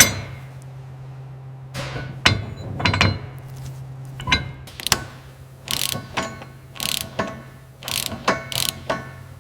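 Irregular metallic clicks and clanks from hand tools working on metal parts, with a sharp knock at the start, over a steady low hum.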